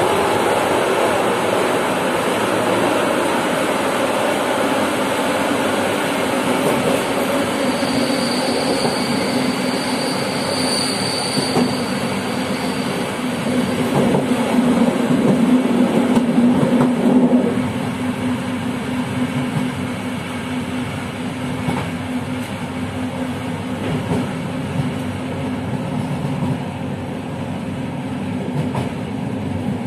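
Passenger train running along the track, heard from its rear end: a steady rumble of wheels on rail. A thin high whine runs from about 8 to 13 seconds in, and the running noise grows louder from about 15 to 17 seconds in, then drops.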